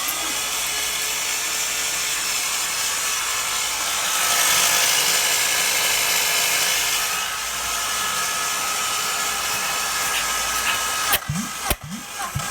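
Steady electric whirring of the G6BV 2.5 V6 being turned over for a compression test. It grows a little louder a few seconds in and breaks off about 11 seconds in, followed by a few clicks and short repeated pulses.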